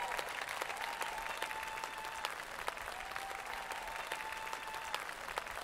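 An audience applauding steadily, with a few long held tones over the clapping that step down and up in pitch.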